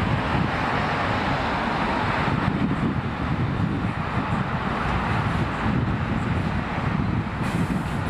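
Steady road and vehicle engine rumble with wind noise on the microphone; no siren.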